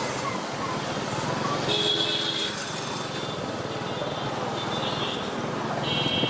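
Steady road traffic noise heard from a moving vehicle, with two short high-pitched tones, one about two seconds in and another near the end.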